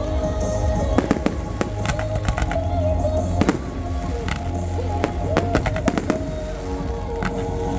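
Fireworks display: a steady run of sharp bangs and crackles, some in quick clusters, over music with held melody notes.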